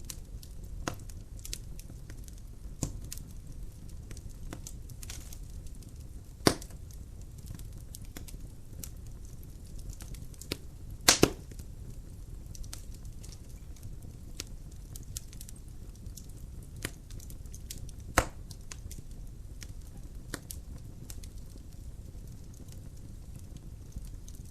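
Wood logs burning in a fireplace: scattered sharp crackles and pops over a low, steady rumble of the fire. The loudest pops come about a quarter of the way in, as a quick double pop near the middle, and once more about three-quarters through.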